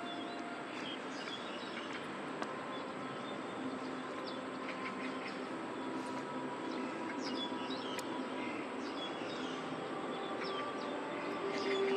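Many small birds chirping in short, scattered calls over a steady background rumble of open-air city ambience.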